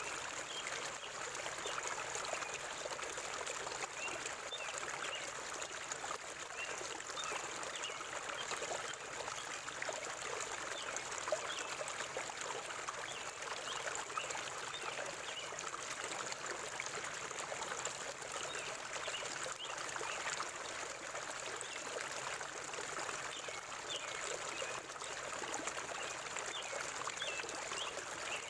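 Forest river water flowing and trickling steadily over stones, a continuous babbling rush without pauses.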